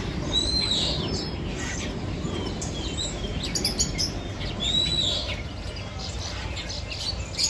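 Small birds chirping, with one clear arching whistle near the start and another about four seconds later, and scattered shorter chirps between, over a steady low background rumble.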